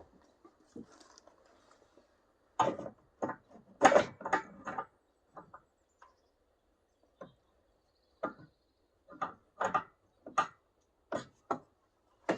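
Irregular knocks and clunks of an aluminum framing piece being handled and tried against a small fiberglass boat's hull: a quick cluster a few seconds in, then single knocks about every half-second to second near the end.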